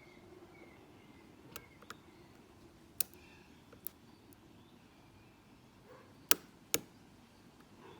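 Scattered sharp clicks of a lock pick working the security pins of a pin-tumbler padlock under tension, about six in all, the two loudest close together near the end.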